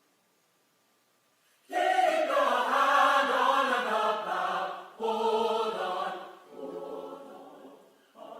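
Near silence, then about two seconds in a choir of voices starts singing together, with sustained notes in phrases that fade toward the end.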